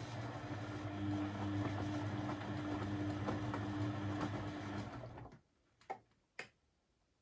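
Beko WMB 71643 PTE washing machine running with a steady hum, which cuts off suddenly about five seconds in, followed by two sharp clicks half a second apart.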